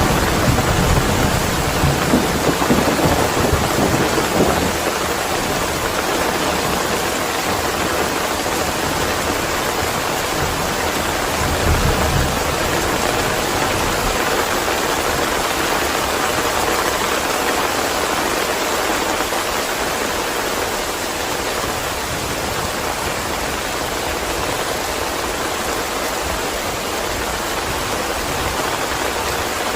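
Steady heavy rain, with rolls of thunder rumbling during the first few seconds and once more briefly near the middle.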